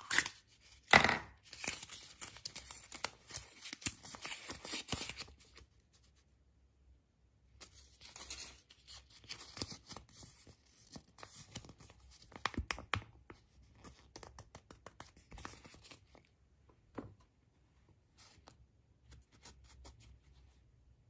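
Packaging being torn open and crinkled by hand, in long stretches of crackly rustling with a short pause about six seconds in, then only scattered small clicks and rustles for the last few seconds.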